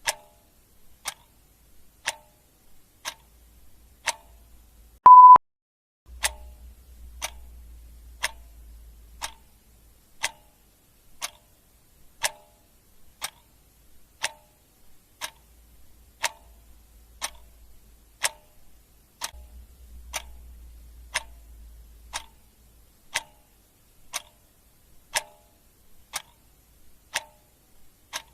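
Clock ticking sound effect, one sharp tick a second. About five seconds in, a single short, loud, high beep sounds, and a faint low hum comes and goes underneath.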